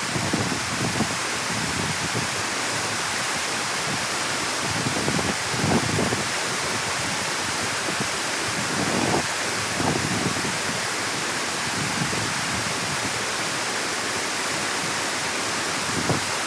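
Steady rush of water pouring through a dam opening, with a few brief low bumps.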